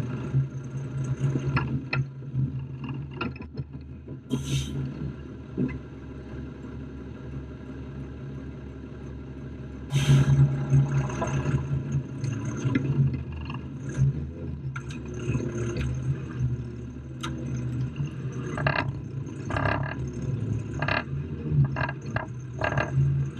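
A 4x4 vehicle's engine running steadily while driving over rough off-road ground, with many short knocks and clunks from the bumping vehicle; it gets louder about ten seconds in.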